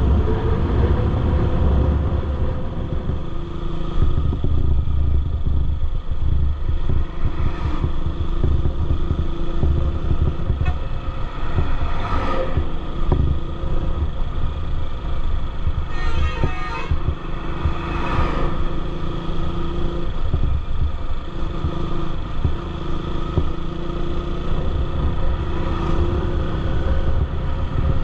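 Motorcycle engine running on the move, its note wavering a little, with a few short louder noises around the middle.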